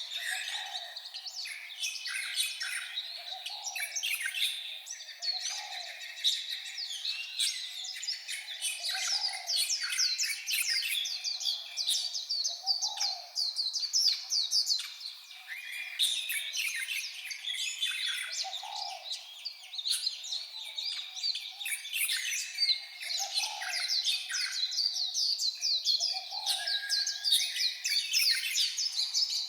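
White-eyes singing: a rapid, high twittering warble of quick short notes, running almost without pause.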